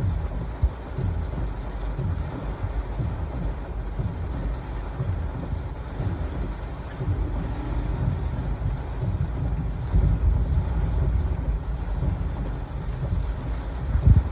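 Heavy rain falling in a steady rush while strong gusty wind buffets the microphone in irregular low rumbles.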